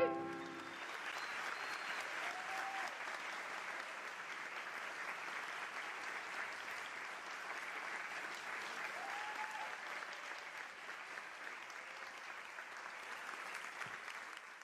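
Concert audience applauding at the end of a sung duet. The applause is steady and fades out at the very end.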